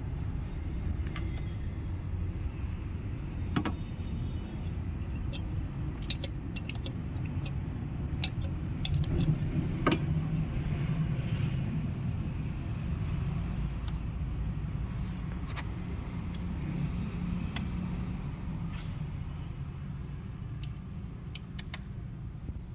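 A steady low rumble with scattered sharp metallic clinks, like hand tools or small metal parts being handled.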